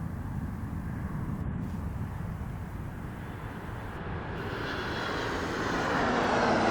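Jet engines of a Southwest Airlines Boeing 737 drawing closer, with a whine that grows louder from about four seconds in, over a steady low rumble.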